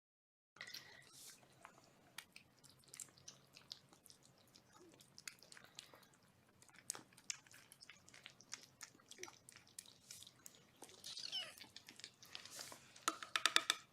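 Kittens chewing and crunching food: faint, irregular small clicks, coming thicker near the end.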